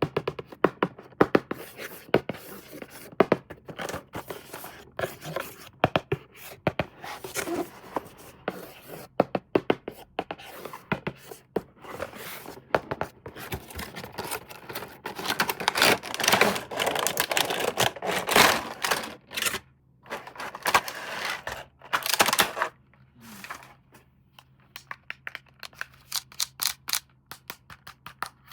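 Hands handling toy packaging: a quick, uneven run of small plastic clicks and taps, with longer stretches of scraping or tearing in the middle.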